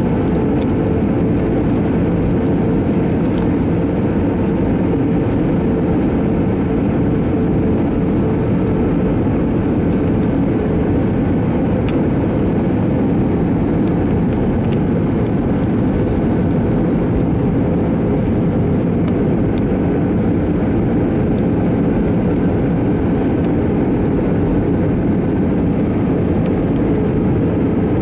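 Steady jet airliner noise, engines and airflow, with a constant hum. It fits the cabin of an Airbus A321-200 on the move.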